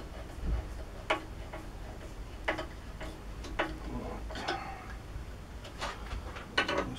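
Irregular light clicks and knocks, about seven over a few seconds with a quick cluster near the end: small metal parts and tools being handled and set down on a workbench.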